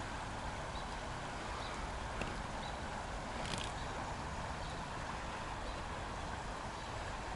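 Steady rush of flowing river water in a shallow brook, with a brief louder noise about three and a half seconds in.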